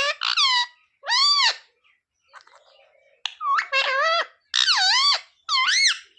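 Pet parrot vocalising in a string of short, high, squeaky notes, each arching up and down in pitch, with a pause about two seconds in before the notes resume.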